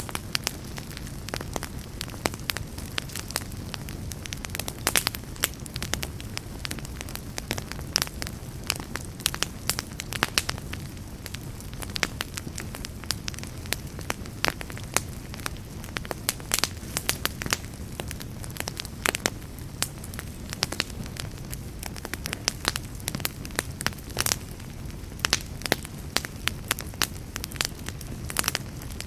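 Wood fire crackling in a fireplace, with frequent irregular sharp pops and snaps over a steady low rush.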